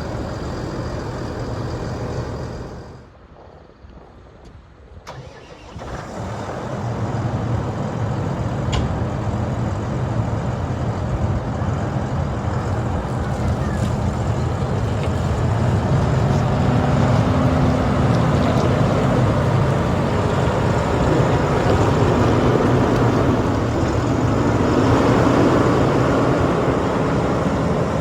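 Case CVX 270 tractor's six-cylinder diesel engine running. It goes quiet about three seconds in, comes back about two seconds later as the engine starts again, and then runs steadily, growing louder.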